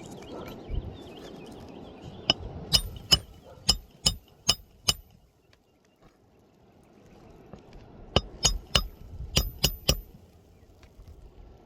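A hammer striking a steel roofing snake worked under an asphalt shingle to pull its nails: two runs of quick, sharp metallic strikes, about seven then about six, with a short pause between.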